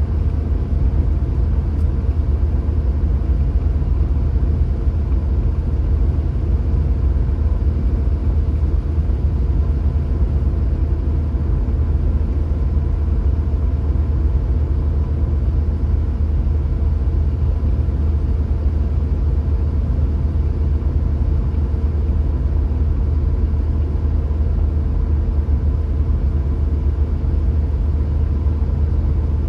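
Steady road and engine noise of a car being driven, a constant low rumble that stays even throughout.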